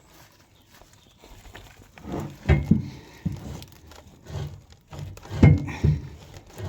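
Wooden blocks knocking and thudding as they are worked loose from under a heavy steam-engine fuel tank. It is quiet for about two seconds, then comes a run of irregular knocks, the loudest about halfway through and near the end.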